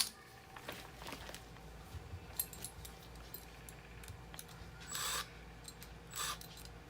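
Light metal clicks and clinks of furnace blower motor parts and mounting bracket being handled and fitted, with two short scraping sounds about five and six seconds in.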